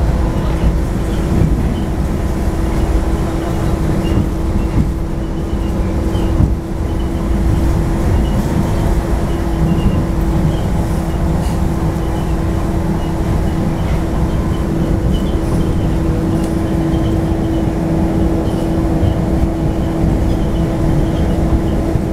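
Automated people-mover train heard from inside its cabin while running: a steady rumble with a constant hum.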